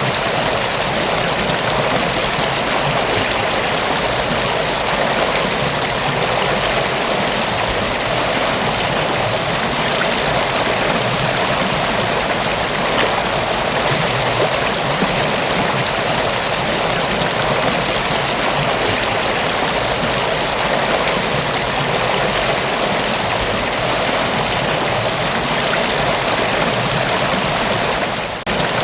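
Mountain waterfall rushing steadily, an even, dense splashing hiss of falling water, with a brief dip in level near the end.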